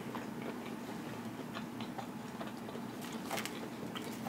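Close-up mouth sounds of someone chewing pizza: soft wet clicks and smacks over a steady low hum. A brief cluster of crackling sounds a little after three seconds in, as a slice of pizza is pulled apart by hand.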